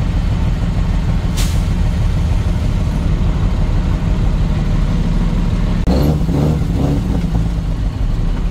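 Heavy diesel dump-truck engine running steadily with a deep low rumble. A short sharp hiss about one and a half seconds in, like an air-brake release.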